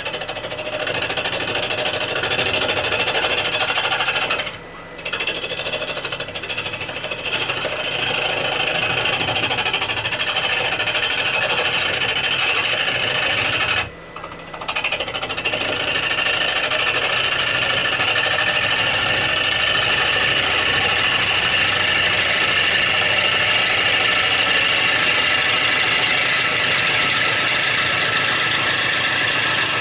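Bowl gouge cutting rowan wood on a running wood lathe, a steady cutting noise that breaks off briefly twice, about four and a half seconds in and again about fourteen seconds in, as the tool leaves the wood.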